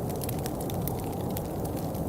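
Steady rain with a dense low patter and many sharp drop ticks.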